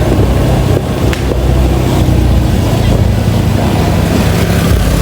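A vehicle engine running steadily, with wind on the microphone.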